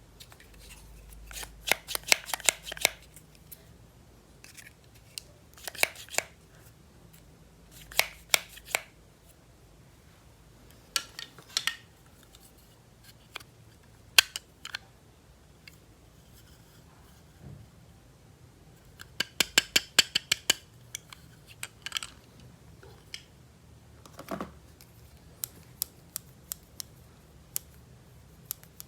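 Sharp plastic clicks and snips from toy packaging and playset pieces being handled, coming in quick clusters of several clicks every few seconds, with scattered single clicks near the end.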